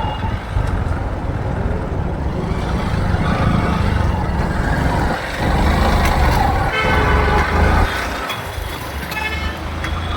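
Road traffic heard from a moving motorbike, with a heavy low rumble and vehicle horns honking a few times in the second half.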